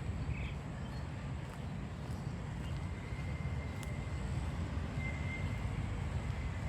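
Steady low outdoor rumble, with a faint thin high tone coming and going from about three seconds in.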